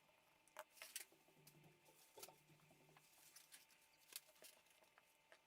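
Faint, scattered small clicks and ticks of a WLtoys 144001 RC car differential being handled and opened up by hand; the differential turns notchy even with grease in it.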